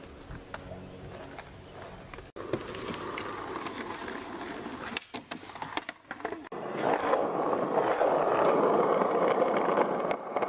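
Skateboard wheels rolling on concrete, the rolling noise cut off abruptly a few times and loudest in the last few seconds, with a few short clacks just past the middle.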